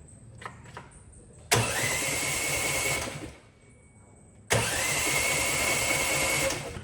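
A small motor runs in two short bursts, each starting suddenly and quickly spinning up to a steady whine before stopping. A few light clicks come just before the first burst.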